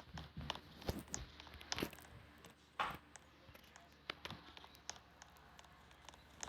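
Faint scattered clicks and taps, with a short rustling burst a little under three seconds in.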